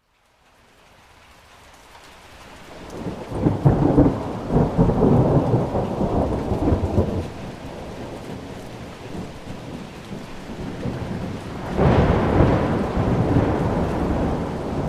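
Rain falling steadily while thunder rolls twice: a long low rumble building a few seconds in, and a second one near the end. The sound fades in from silence at the start.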